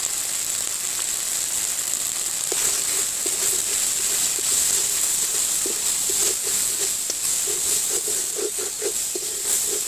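Spice paste sizzling steadily in hot oil in a large metal wok (karahi). From about two and a half seconds in, a wooden spatula scrapes and stirs against the pan in quick irregular strokes.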